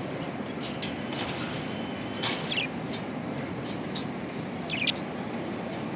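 Budgerigars giving a few short, high chirps, the clearest about two seconds in and just before the five-second mark, over a steady low background noise.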